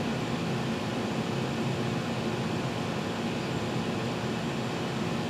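Steady background hum and hiss with no distinct knocks or clicks, of the kind a running fan or air conditioner makes.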